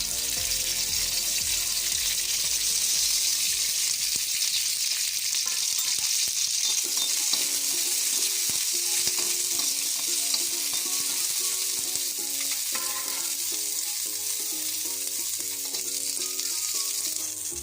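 Green chillies and whole spices frying in sunflower oil in a pan: a steady sizzle.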